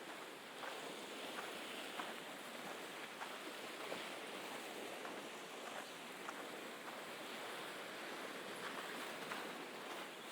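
Steady wash of Mediterranean sea surf, with faint scattered ticks over it.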